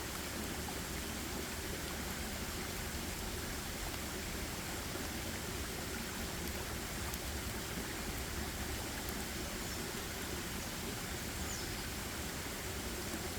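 Steady, even rushing forest ambience with no changes, and one faint high falling chirp about eleven seconds in.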